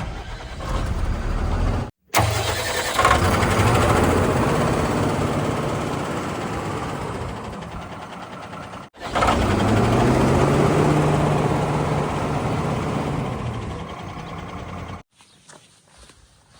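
Heavy diesel engine running hard and revving, heard in three spliced segments with abrupt cuts between them; in the last segment the engine pitch climbs and then holds steady before the sound drops away.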